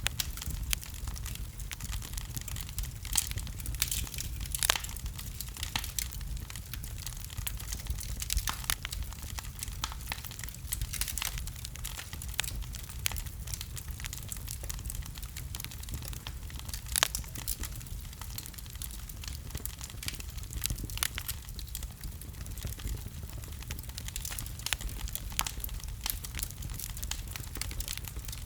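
Wood fire crackling in a fireplace: a steady low rumble of the flames with frequent sharp, irregular pops and snaps from the burning logs.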